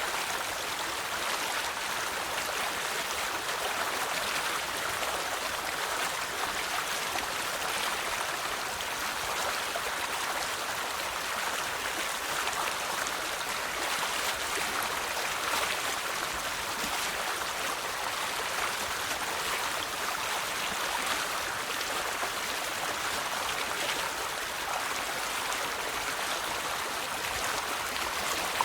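River water flowing over stones, a steady rushing and babbling stream.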